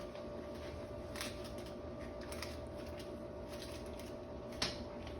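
Faint kitchen handling noises, light clicks and rustles of utensils or containers, with one sharper click near the end, over a steady appliance hum.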